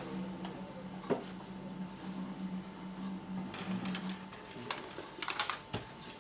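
A small motor hums steadily and stops about four seconds in. There are light clicks and knocks about a second in and several more near the end.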